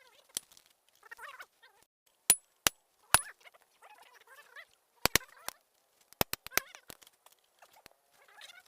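A series of sharp clicks and taps in small clusters, some with a brief metallic ring, over faint bird calls in the background.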